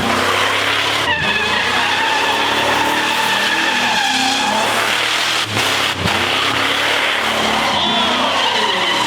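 Car doing a burnout: the engine is held at high revs while the spinning rear tyres squeal steadily with a wavering pitch. The sound dips briefly twice about halfway through.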